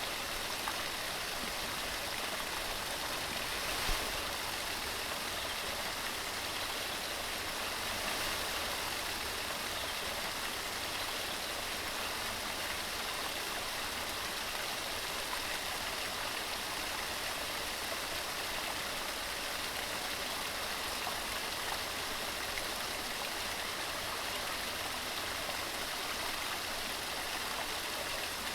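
Waterfall water falling over rocks: a steady, even rush with no letup. There is one brief click about four seconds in.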